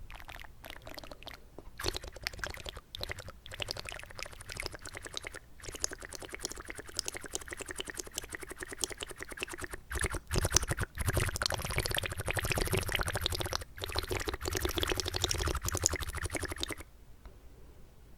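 Water swished and bubbled in the mouth close to the microphone, a dense run of small wet pops and crackles that grows fuller in the second half and stops abruptly near the end.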